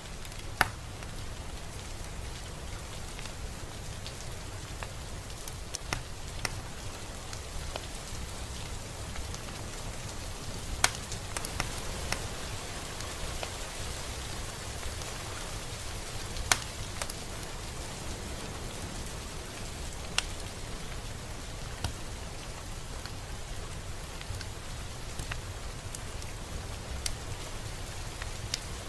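Steady, gentle rain falling, with a scattering of single drops striking close by as sharp ticks.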